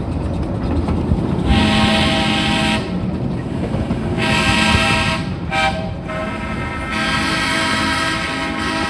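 Steam locomotive whistle sounding long, long, short, long, the grade-crossing signal, over the rumble of the running train. The whistle gives a chord of several tones.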